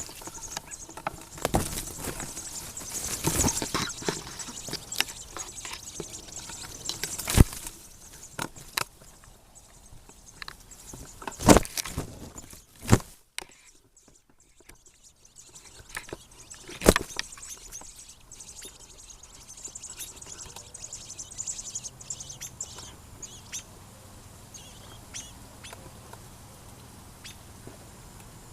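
Knocks, clatter and a few sharp thumps of a tripod and camera being handled, then a quieter stretch with faint, short, high bird chirps.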